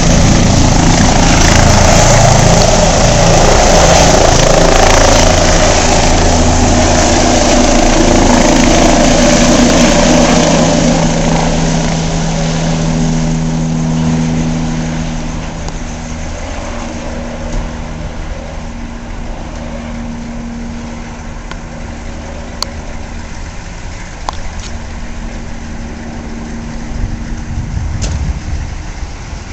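Medical helicopter's turbine engine and rotor running, loud at first, then dropping off between about twelve and sixteen seconds in and going on more faintly with a steady hum as it lifts off and flies away.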